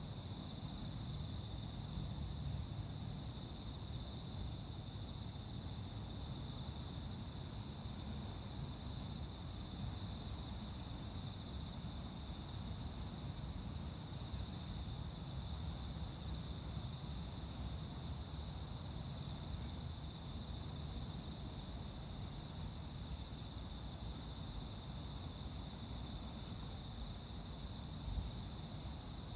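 Crickets and other insects chirring continuously in steady high-pitched trills, over a low rumble, with one brief knock near the end.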